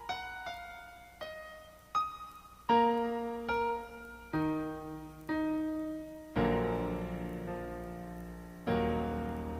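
Solo piano playing a slow melody of single notes, about one every three-quarters of a second, then two fuller, deeper chords near the end that are left to ring and fade.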